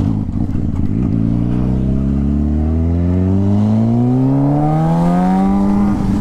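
Motorcycle engine accelerating in one long pull, its pitch climbing steadily for several seconds and then holding level near the end.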